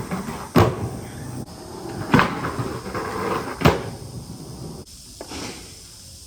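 Skateboard rolling on concrete, with three sharp clacks of the board about a second and a half apart; the rolling fades out near the end.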